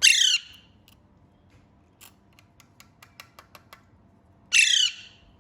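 Pet green parakeet giving two loud, harsh squawks, one at the start and one about four and a half seconds in, with a run of faint sharp clicks in between.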